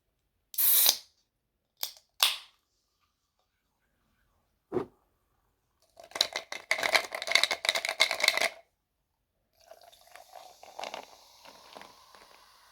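Close-miked eating sounds of crispy air-fried chicken drumsticks: a few sharp crunches, then about two and a half seconds of dense crackling chewing, then softer, quieter chewing.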